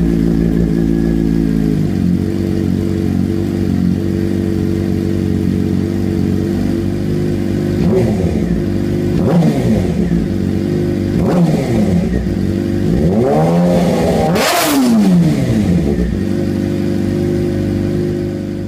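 Suzuki GSX-R 600 inline-four through an M4 carbon aftermarket exhaust, idling steadily. Three quick throttle blips come about halfway through, then a longer, higher rev about three-quarters of the way in before it settles back to idle.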